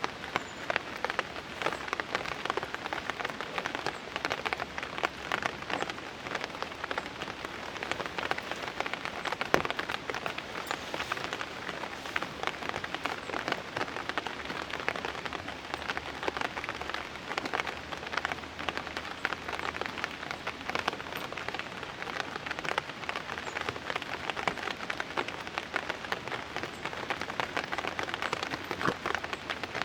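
Rain falling steadily: a dense, continuous patter of drops striking a surface.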